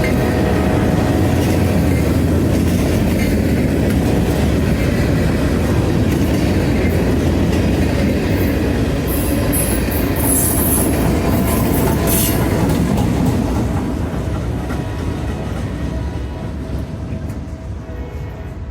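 Train rolling past with its wheels clattering over the rail joints, and brief high wheel squeals about halfway through; the sound then fades as the train moves away.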